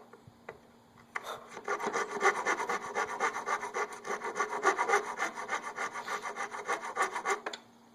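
Hand saw cutting plywood in quick back-and-forth strokes, about four a second, starting about a second in and stopping shortly before the end.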